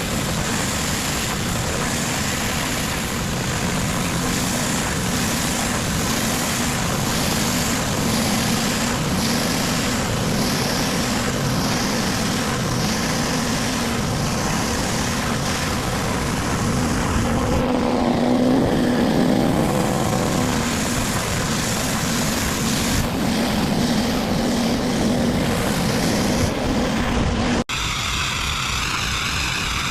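Pressure washer running steadily, an engine drone under the hiss of the high-pressure spray. Near the end the sound cuts off abruptly and picks up again as a slightly different run of the same machine.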